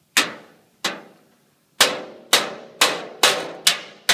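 Hammer tapping a metal drawer runner bar into its hole in a filing cabinet drawer body, where the fit is tight. Eight sharp strikes: two spaced apart, then a quicker run of about two a second.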